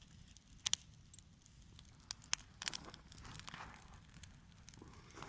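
Outdoor wood bonfire burning, with irregular sharp crackles and pops from the burning wood over a low steady rumble.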